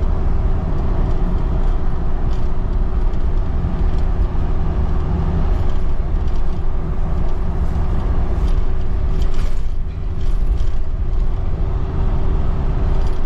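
Steady engine and road rumble of a vehicle driving along, with a constant hum, dipping briefly about ten seconds in.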